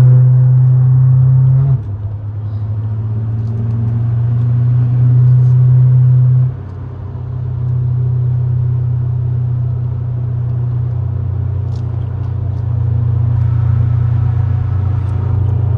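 Big-turbo BMW 540i's B58 turbocharged straight-six heard from inside the cabin while driving, a steady low drone. It swells and then drops off sharply twice, about two seconds in and again about six and a half seconds in, then settles into an even drone.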